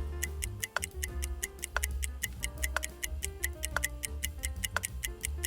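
Quiz countdown timer ticking, about four ticks a second with a stronger tick once each second, over background music with a steady bass.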